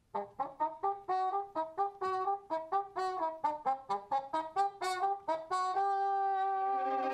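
Solo trumpet opening a klezmer tune, unaccompanied: a quick run of short, separate notes, then one long held note near the end.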